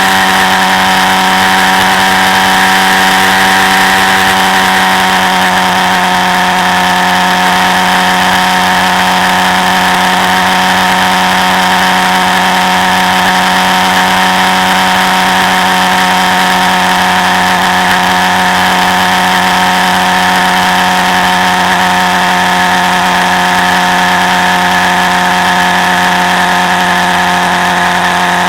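Quad bike engine running at a steady speed, its pitch holding almost level and easing slightly lower over the stretch.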